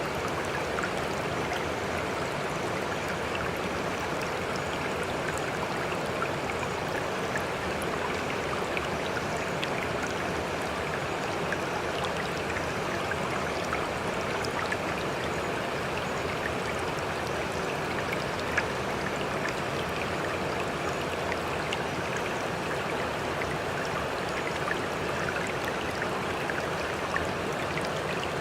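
Sea water washing and trickling in a steady rush, with many small splashes and drips and no rise and fall of breaking waves.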